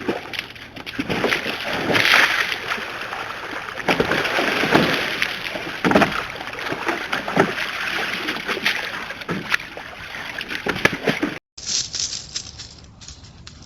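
Water splashing and sloshing in irregular bursts, then a cut about eleven and a half seconds in to a quieter recording with scattered light clicks.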